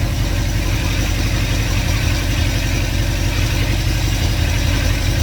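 A 2110cc air-cooled VW flat-four engine with dual Empi 44 IDF carburetors idling steadily, fully warmed up, with its idle sitting a little high.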